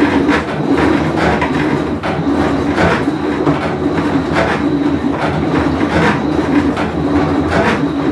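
Whirlpool Cabrio top-load washer running with a loud, steady rumble and irregular rattling, the noise of its worn tub bearing.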